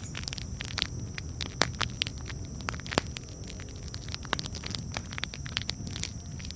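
Wood campfire crackling: irregular sharp pops and snaps, a few louder ones about one and a half and three seconds in, over a steady low rumble of the burning fire.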